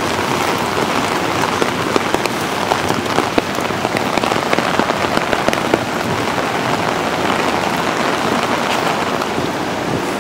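Heavy rain falling steadily, with many sharp drop patters close by.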